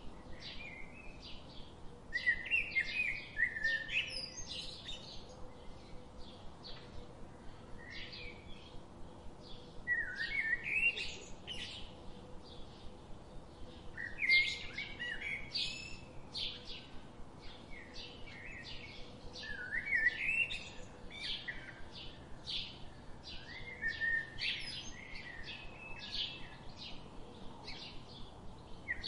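Birds singing and chirping: a steady run of short high chirps, with a louder song phrase breaking in every four to six seconds.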